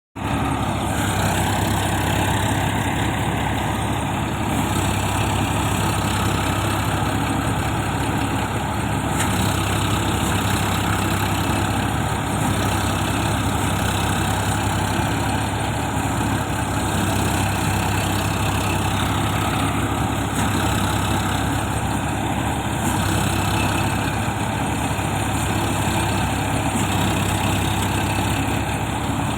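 Sonalika Sikandar 47 tractor's diesel engine idling steadily, with a constant low hum.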